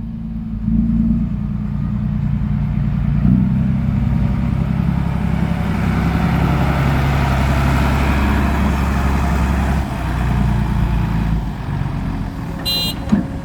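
Heavy diesel engine running. Its sound builds through the middle, working harder, then eases off about ten seconds in. A brief high-pitched squeal comes near the end.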